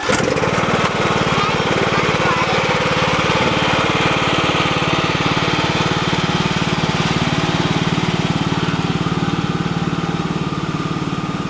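Tractor engine comes in suddenly and runs steadily, its firing pulses evenly spaced.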